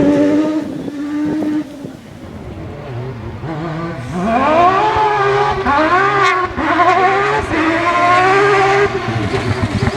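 Mazda rotary (Wankel) engine of a Proto 205 rally car at full throttle. It holds a steady high note for a moment, drops back, then from about four seconds in climbs in a run of rising revs, each cut short by a gear change.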